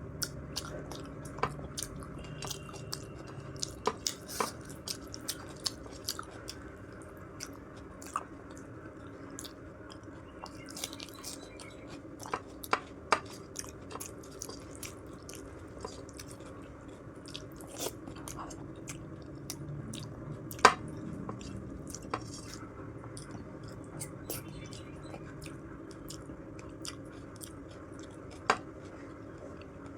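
A person eating close to the microphone: chewing food, with irregular sharp wet mouth clicks scattered throughout. A steady low hum runs underneath.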